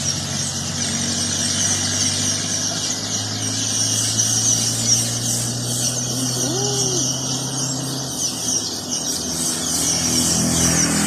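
A flock of Eurasian tree sparrows chattering in a tree, many quick high chirps overlapping without pause. A steady engine hum runs underneath and stops about eight seconds in.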